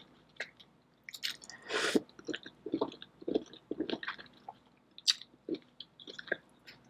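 Close-miked chewing of sauce-covered seafood: wet mouth smacks and small clicks, with one longer, louder wet sound about two seconds in.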